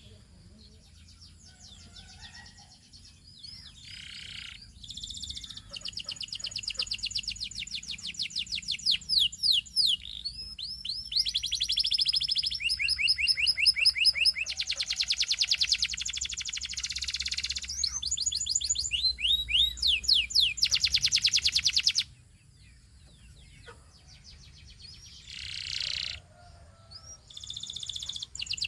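Canary singing long runs of rapid trills and rolls, high-pitched and fast-repeating, in phrases with short breaks. The song starts a few seconds in, stops suddenly about two-thirds of the way through, and picks up again near the end.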